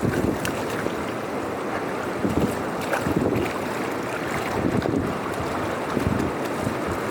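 Floodwater rushing through a drain in a steady wash of noise, with irregular louder surges every second or two.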